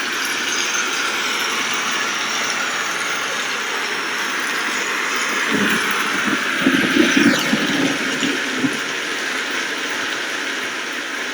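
Steady rain falling, a dense even hiss. About halfway through, a few seconds of louder low rumbling with a few sharp knocks rise over it and then fade.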